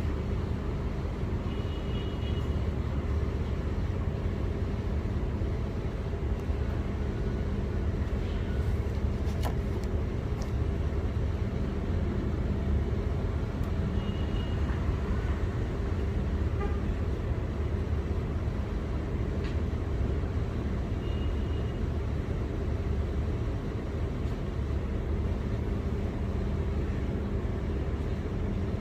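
Steady low vehicle rumble with a constant mechanical hum, with a few brief faint high chirps.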